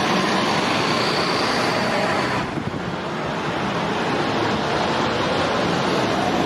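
Loud vehicle sound effect: a dense, steady rushing noise that starts and stops abruptly, with a change in texture about two and a half seconds in.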